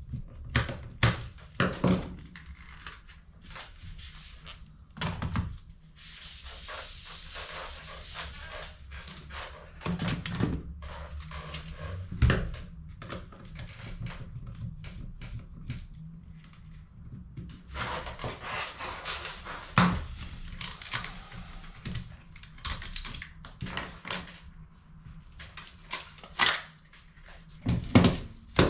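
HP CE285A laser toner cartridge being handled during refilling: repeated plastic clicks and knocks, with a steady hiss for about three seconds starting about six seconds in and another rougher hissing stretch past the middle.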